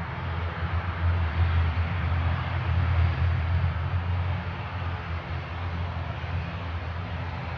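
Jet airliner engines rumbling steadily: a deep drone under a broad hiss that swells slightly and eases off again.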